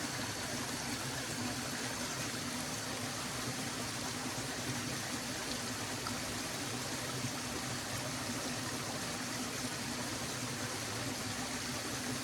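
Stream flowing, a steady, unbroken rush of water.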